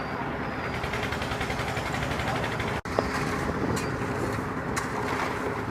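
Heavy machinery running steadily, with a faint hum under a dense mechanical noise. The sound drops out abruptly for an instant about halfway through, and a few sharp clanks follow later.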